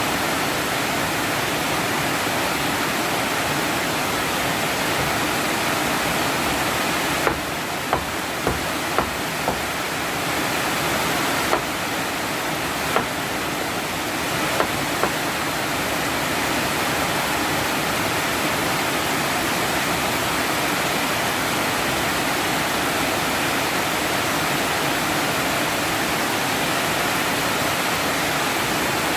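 Heavy rain pouring down in a steady, loud hiss. Between about seven and fifteen seconds in, the rain eases slightly and several short sharp taps sound.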